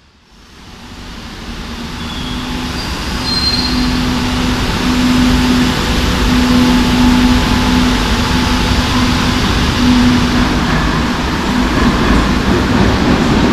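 Madrid Metro Serie 2000 train running at the platform, growing louder over the first few seconds and then holding a steady rumble with an on-and-off low hum.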